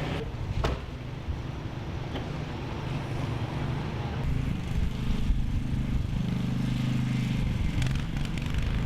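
A motor vehicle's engine running with a steady low hum, growing a little louder about halfway through.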